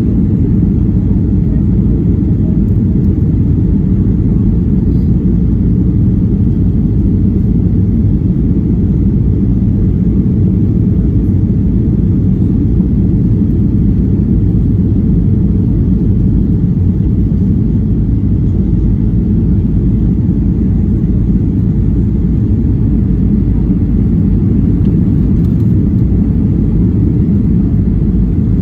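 Steady low rumble of engine and airflow noise inside the cabin of a Boeing 737-800 airliner, even throughout with no distinct bumps or changes in thrust.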